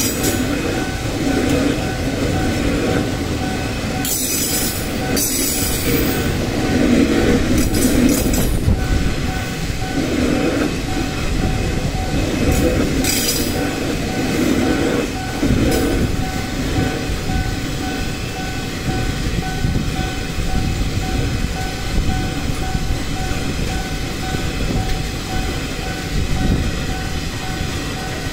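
A heavy-haul coal train of loaded C80B wagons rolling past at steady speed: continuous wheel and rail noise with a faint steady tone underneath. There are a few brief sharp high-pitched squeals or screeches between about 4 and 16 seconds in.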